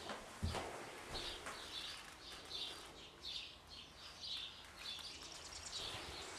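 Birds chirping faintly, a steady run of short high chirps about twice a second, with one low thump about half a second in.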